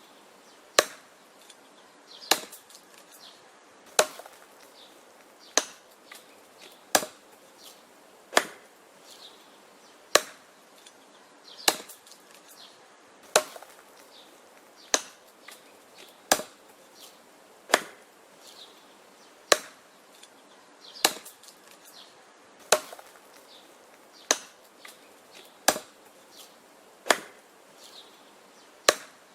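Wood being chopped: sharp, single strikes in a steady rhythm, about one every one and a half seconds.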